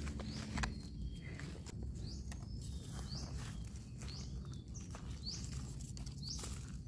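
A bird gives a short, high, rising chirp about once a second, over soft rustling and scraping of dry soil and leaves as a mushroom is dug out by hand and knife.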